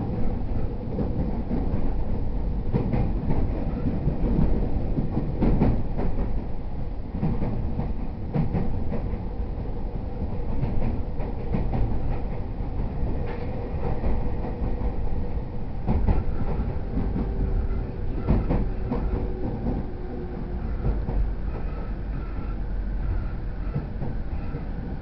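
Running sound inside a JR East E231-0 series commuter train car: a steady rumble of the train under way, with the wheels clicking over rail joints at irregular intervals and a faint whine in the background.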